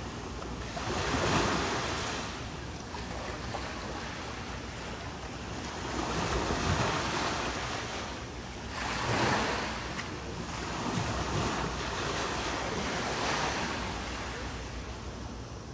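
Ocean waves washing in, swelling louder every few seconds, with wind on the microphone making a steady low rumble.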